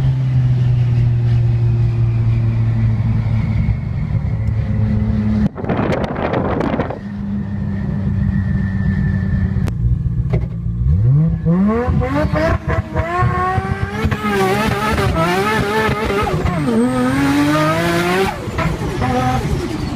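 Modified Nissan Skyline R34 GT-R's twin-turbo straight-six running at a steady note. After a cut, it accelerates hard from about the middle onward, the pitch climbing through the gears with short dips at each shift.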